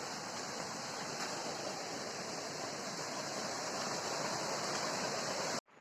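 Steady hiss of rushing water that cuts off suddenly near the end.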